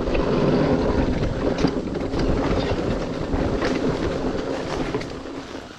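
Dirt bike engine running under throttle while riding a trail, with some wind on the microphone; the engine sound drops away near the end.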